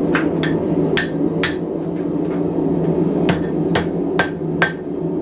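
Blacksmith's hammer lightly tapping hot steel on a hardy tool, spreading the split tines of the bar apart: about eight ringing strikes in two groups of four, a pause of nearly two seconds between the groups. A steady low rushing noise runs underneath.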